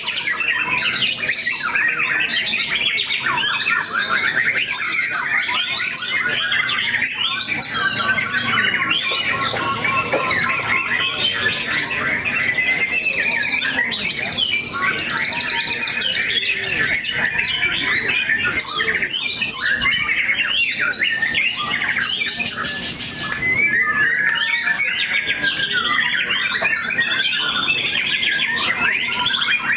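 Several caged white-rumped shamas (murai batu) singing at once in a dense chorus of overlapping whistles, trills and chirps, with a brief harsh rasp about two-thirds of the way through.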